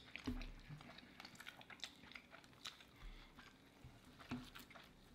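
Faint chewing and wet mouth sounds from people eating a brisket, bacon and roast beef sandwich: scattered soft smacks and clicks.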